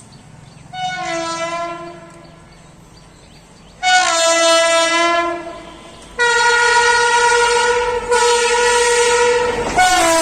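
WAP-7 electric locomotive's air horn sounding in a series of blasts: a short one, a louder one about four seconds in, then a long higher-pitched blast from about six seconds with a brief break near eight seconds, and a lower, slightly falling note starting near the end.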